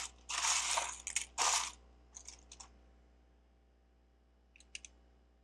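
Loose plastic Lego bricks clattering and rattling as they are handled and sorted through, for the first couple of seconds. A few small clicks follow, then a brief pair of clicks near the end.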